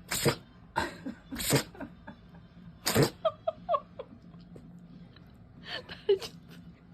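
Dachshund sneezing in a run of sharp sneezes: three in the first couple of seconds, the loudest about three seconds in, and two more near the end.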